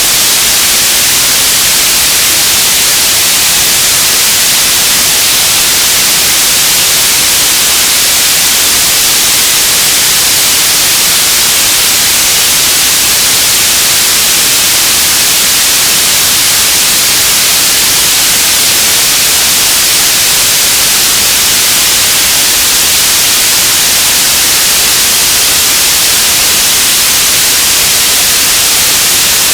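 Radio static: a loud, steady hiss, heaviest in the upper treble, that never changes.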